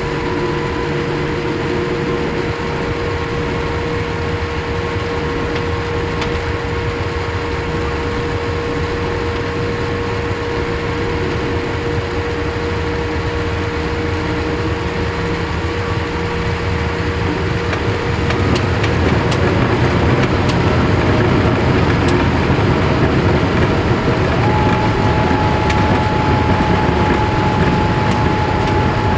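Cabin noise inside a Boeing 787-8 Dreamliner with its jet engines running, a steady whine over a rumble. About 18 seconds in, the engine noise grows louder and heavier, and a higher steady tone comes in a few seconds later.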